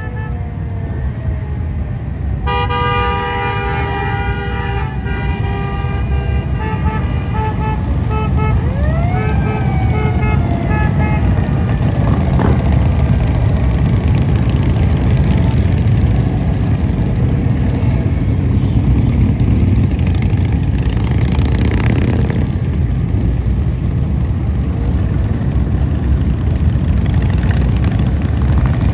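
Vehicle horns honking in repeated blasts, with a short siren whoop among them, over the low rumble of many motorcycle engines going by. The horns stop about a third of the way in, and the motorcycle rumble grows louder as the pack passes.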